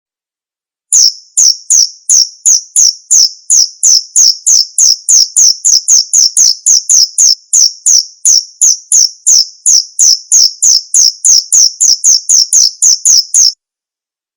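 Male cricket chirping: a steady train of short, sharp, high chirps, about three a second. It starts about a second in and stops abruptly shortly before the end.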